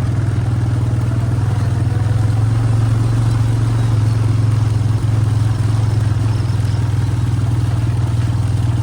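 Vehicle engine running at a steady speed, a loud, even low hum with no change in pace.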